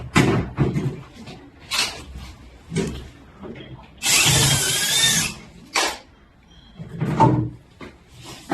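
Electric drill/driver running in one continuous burst of about a second, with a wavering motor whine, as screws are driven out while a front-loading washing machine is taken apart.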